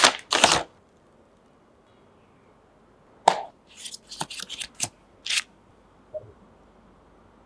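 A series of sharp clicks and short rustling snaps: a couple right at the start, then a quicker run of about half a dozen from about three to five and a half seconds in, and one faint click near six seconds.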